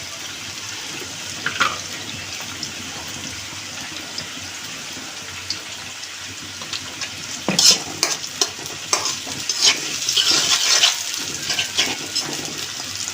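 Chicken pieces frying in hot oil, a steady sizzle. From about halfway there are sharp knocks and scraping as the pieces are stirred in the pan.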